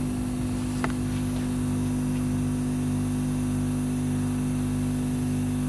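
Ozone generator running with a steady electrical hum, and one faint click about a second in.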